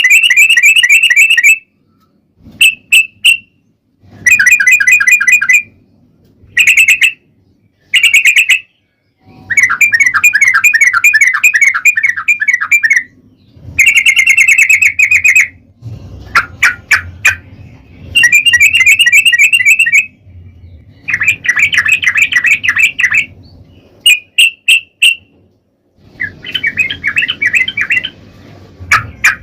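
Yellow-vented bulbul (trucukan) singing its fast trilled 'ropel' song. Loud phrases of rapid bubbling notes last from half a second to a few seconds each, with short pauses between them, over and over. A faint low hum runs under some of the phrases.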